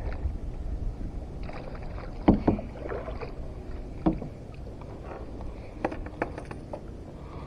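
Scattered knocks and clunks of gear being handled on a kayak, over a steady low rumble.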